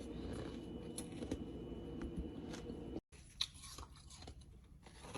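Ice being bitten and chewed close to the microphone, a run of crunching and crackling clicks. About three seconds in the sound cuts out for a moment, and after that the crunches come sharper and more separate over a quieter background.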